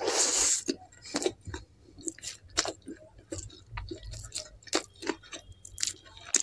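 Close-miked wet chewing and lip smacking of a mouthful of naan and kadhai paneer. It opens with a loud slurp as the fingers are sucked clean, then goes on as irregular smacks and clicks.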